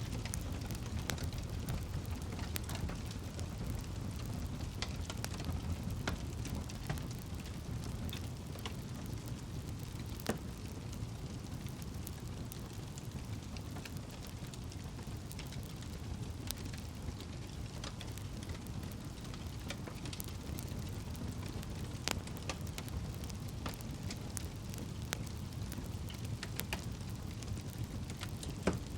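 Campfire burning: a steady low rumble with scattered sharp crackles and pops of burning wood.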